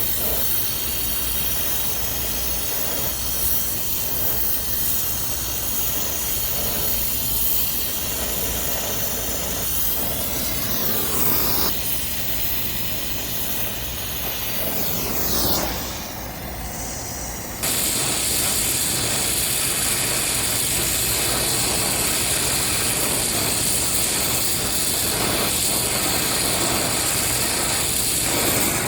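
Oxyacetylene brazing torch burning with a steady hiss while copper refrigerant lines are brazed, with silphos as the filler. The hiss changes suddenly in tone and level a few times, about midway through.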